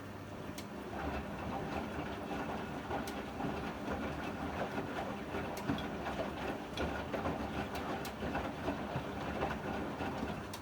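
Privileg 804 washing machine running: a rough, uneven rumbling starts about a second in over a steady low hum, with scattered clicks.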